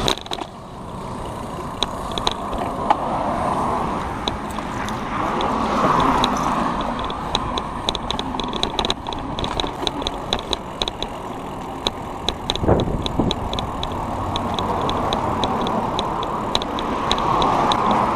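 Road bike rolling along with its rear freewheel hub ticking rapidly while coasting, over steady road and wind noise. Cars pass about six seconds in and again near the end, and there is a single knock from a bump past the middle.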